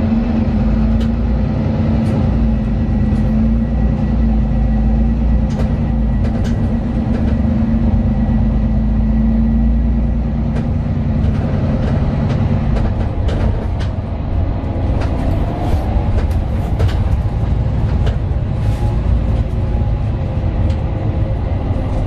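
The Mercedes-Benz Citaro 2 city bus's OM 936LA six-cylinder diesel running under load, heard from inside the passenger cabin as a steady drone. The drone eases off a little past halfway. Scattered clicks and rattles follow in the second half.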